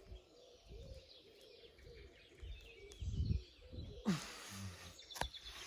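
Faint bird chirps over low, irregular rumble, with a short rustle about four seconds in.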